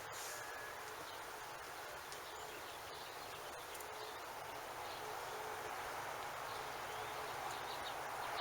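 Faint steady hiss that grows a little louder in the second half, with no igniter clicking: the tankless propane water heater does not fire when the hot water is turned on.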